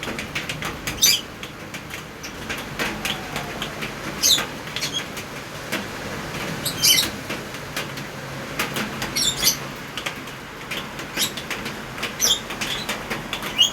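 Rain shower pattering steadily on plants and leaves, with short bird chirps cutting through every second or two.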